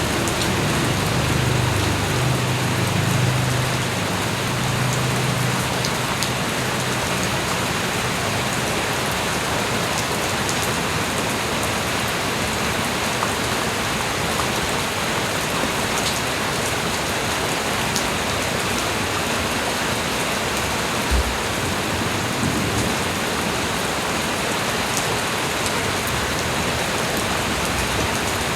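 Steady light rain falling on surfaces, a dense even hiss with scattered individual drops ticking. A low rumble sits under it for the first few seconds, and a single low thump comes about three quarters of the way through.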